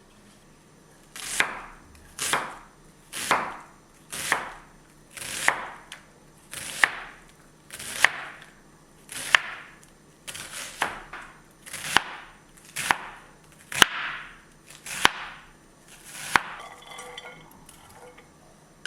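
A knife slicing through food onto a cutting board at a slow, even pace, about one cut a second: each cut is a short swish that ends in a sharp click on the board. About fifteen cuts in all, then they stop.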